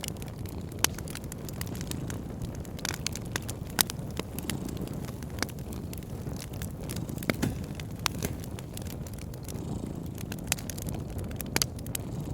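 Wood fire crackling, with irregular sharp pops and snaps, over a cat's low, steady purring that swells and eases every couple of seconds.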